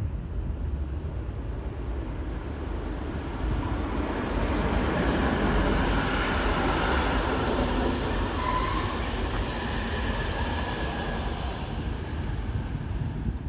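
Passenger train running past. The noise builds to its loudest in the middle, with a faint whine over the top, and falls away sharply right at the end.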